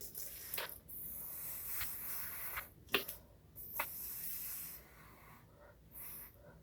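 A person blowing puffs of breath across wet poured acrylic paint to spread it into a bloom. The breathy hiss comes in several puffs of one to two seconds each, with a few small clicks between them.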